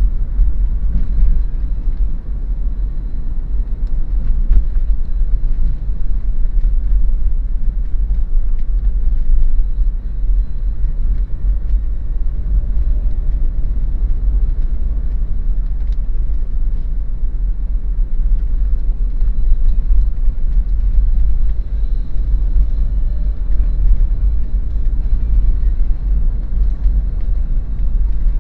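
Daihatsu Terios being driven on the road: a steady low rumble of tyre, road and engine noise.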